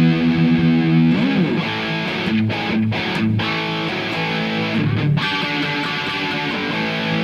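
Gibson Les Paul electric guitar played through an Orange OR15 amp and 2x12 cabinet: a held chord, a note bent up and down about a second in, then a run of chords and notes with several brief stops between them.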